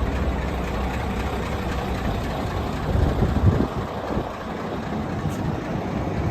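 Mitsubishi 8DC11 V8 diesel engine of a 1990 Fuso Great dump truck, running at idle. It swells briefly about three and a half seconds in, then settles slightly quieter.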